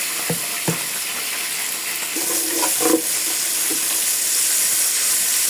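Onion sizzling in hot oil in a pot, a steady hiss that grows a little louder in the second half. A few sharp clicks come in the first second.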